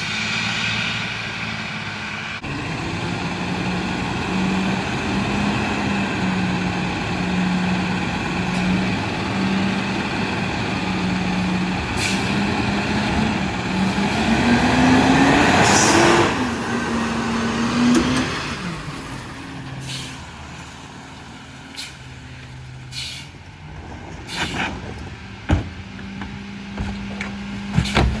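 Freightliner M2 McNeilus rear-loader garbage truck's engine running. Its pitch climbs about halfway through, ending in a loud hiss of air brakes. After that it runs quieter, with several sharp knocks and clanks near the end.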